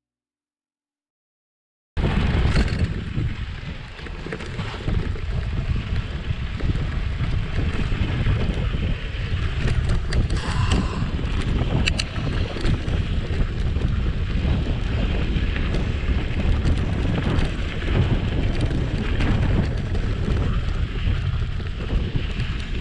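Silent for about two seconds, then steady wind buffeting on the microphone of a moving rider's camera: a heavy, continuous rumble with hiss above it.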